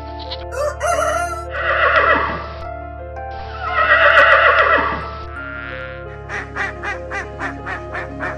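Farmyard fowl calling over steady background music: two long calls that fall in pitch, then a quick run of short repeated calls.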